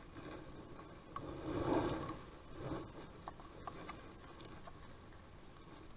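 Faint handling noises at an open beehive: rough scraping and rustling, loudest about two seconds in, with a few light clicks and taps of wooden hive parts being moved.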